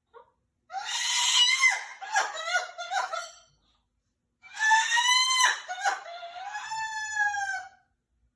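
A bird calling loudly in two bouts of harsh, pitched, crow-like calls; the last call is drawn out and slowly falls in pitch.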